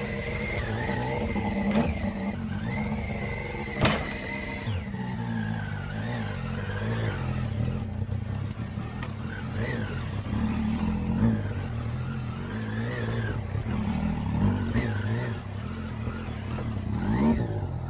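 A motor vehicle's engine running, its pitch rising and falling a little, with a thin high whine over it for the first few seconds and a single sharp click about four seconds in.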